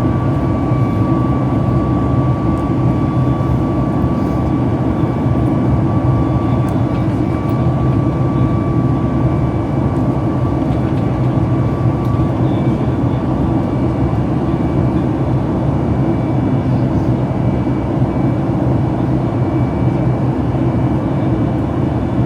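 Steady cabin noise of a Boeing 737 MAX 8 airliner in flight: the CFM LEAP-1B engines and rushing air make a deep, even rumble. A thin steady whine rides on top and fades out about halfway through.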